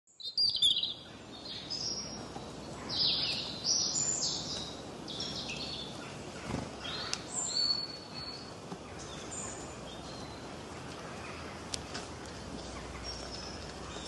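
Small aviary birds chirping, with many short high calls, busiest in the first half and sparser later, over a steady background hiss.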